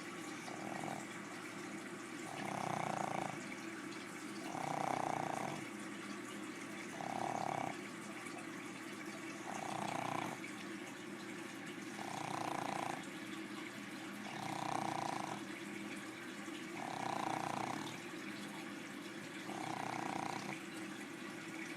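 Pug snoring in a regular rhythm, about nine snores, one every two and a half seconds or so, each swelling and fading over about a second, over a steady hiss.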